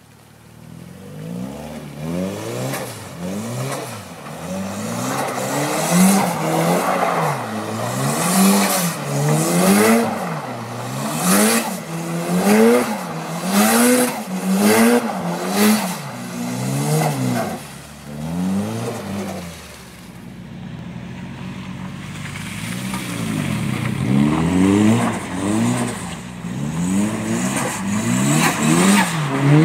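Toyota Celica GT4 ST205's turbocharged four-cylinder engine revved up and down over and over, about once a second, as the car slides on snow. About two-thirds of the way through the sound changes, and the revs build again and grow louder toward the end.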